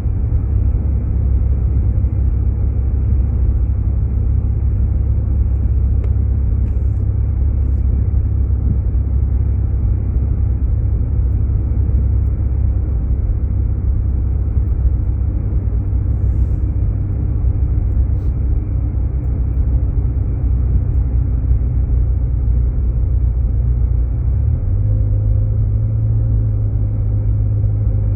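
Steady low rumble of a Jeep Grand Cherokee's engine and tyres on a snowy road, heard from inside the cabin. The pitch of the rumble shifts near the end.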